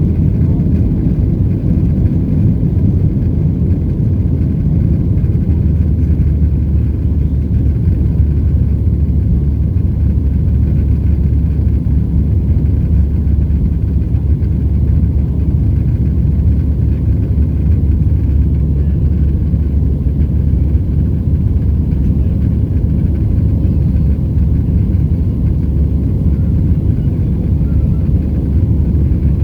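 Steady low rumble of a Boeing 737-700's CFM56 jet engines and airflow heard inside the passenger cabin, holding an even level.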